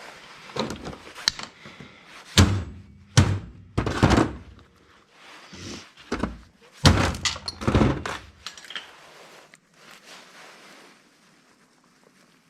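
Irregular heavy thuds and knocks, about eight in the first two-thirds, the loudest around 2.5, 3 and 7 seconds in, from scrap being worked apart by hand. After that it goes quieter.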